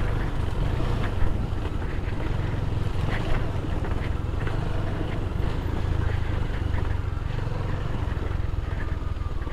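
KTM Duke 250's single-cylinder engine running steadily, a low even rumble with no change in pace.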